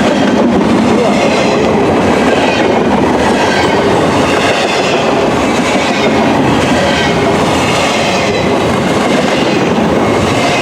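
Freight train cars rolling past at steady speed: a continuous rumble of wheels on rail with clickety-clack from the rail joints.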